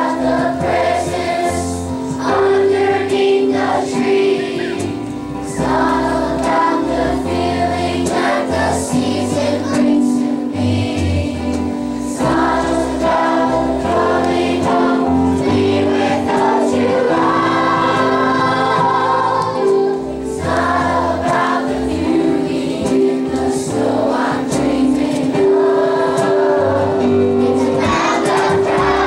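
School choir singing a Christian Christmas song over instrumental accompaniment with a bass line that moves from note to note.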